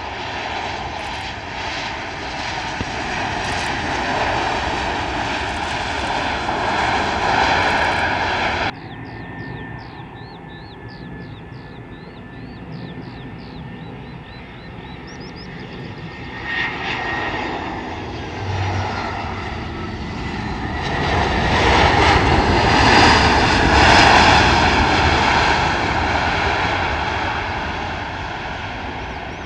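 Airliner engine noise as a jet passes close by, cutting off abruptly about nine seconds in. Then, over birds chirping, another airliner's engine noise swells to a loud peak and fades away.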